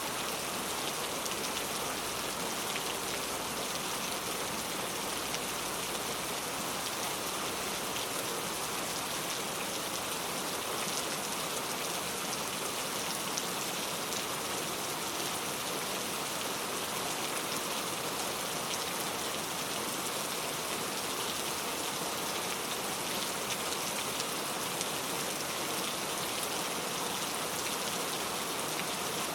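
Heavy rain falling steadily on a leaf-covered road, a dense even patter of individual drops tapping on the surface.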